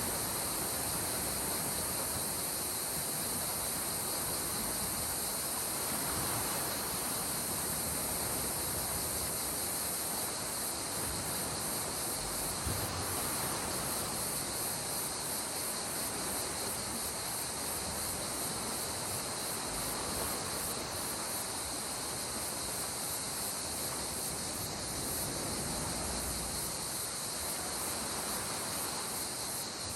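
Gentle sea surf washing on the shore as a steady hiss that swells slowly every few seconds, under a continuous high-pitched insect chorus.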